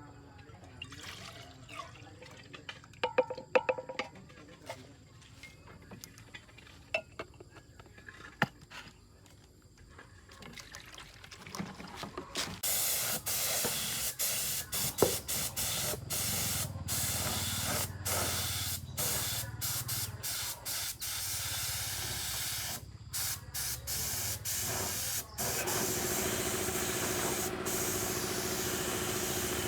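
Quiet clicks and taps, then about halfway through a spray gun starts hissing loudly, cutting off and restarting many times in quick breaks as the trigger is worked. Near the end a steady hum joins the spray.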